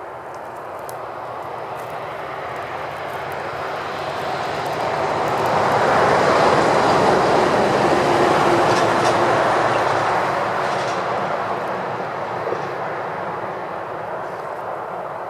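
A vehicle passing by: a steady rushing noise that grows louder, peaks about halfway through and fades away again.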